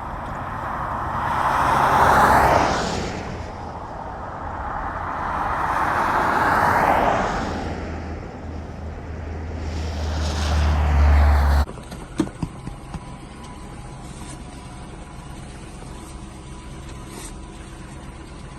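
Road vehicles driving past one after another: two swelling and fading waves of traffic noise, then a low rumble that builds until it cuts off suddenly about two-thirds of the way through. Quieter street background with a few small clicks follows.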